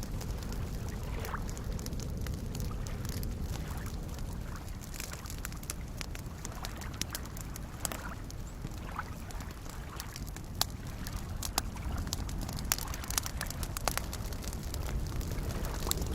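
Campfire crackling with scattered sharp pops over a steady low wash of soft waves lapping at the lakeshore.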